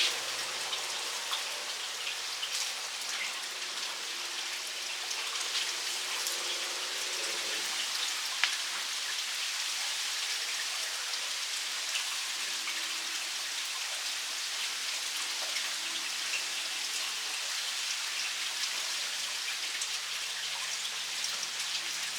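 Steady rain falling, a constant hiss with scattered small taps.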